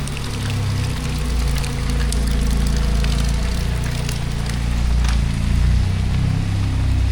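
Heavy tropical rain pouring steadily, with scattered sharp ticks of drops and a loud low rumble underneath.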